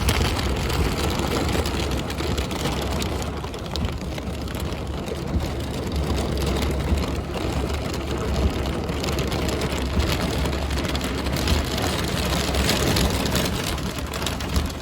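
Heavy thunderstorm rain pouring steadily, with strong wind rumbling on the microphone and a few brief sharper taps.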